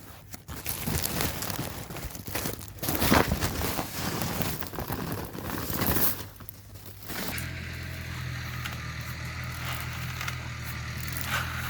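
Rustling and crinkling handling noise with many short crackles for about six seconds. Then, after a short lull, the farm tractor's engine starts a steady low running hum about seven seconds in.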